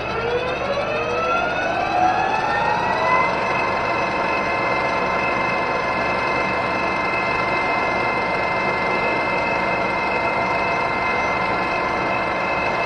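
Metal lathe motor and spindle spinning up, its whine rising in pitch for about three seconds, then running steadily at speed.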